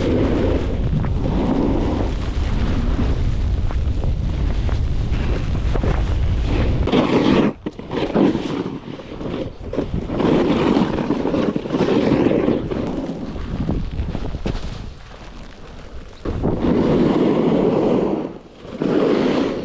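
Heavy wind buffeting the camera microphone in loud, uneven gusts. A low rumble drops away about seven seconds in.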